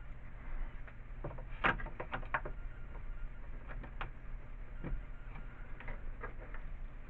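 A 1/4-inch nut driver turning a screw into a snow shovel's repair strip, giving scattered light clicks and taps of metal and plastic. The clicks come in a cluster a second or two in and again about four seconds in.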